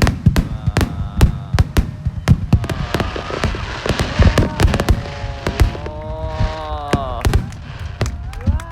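Aerial fireworks bursting in quick succession: a dense run of sharp bangs and crackles, with wavering pitched tones rising and falling through the middle.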